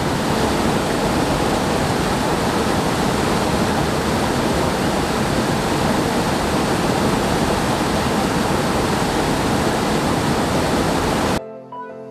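Steady rushing of a waterfall's falling water. It cuts off abruptly near the end, where music begins.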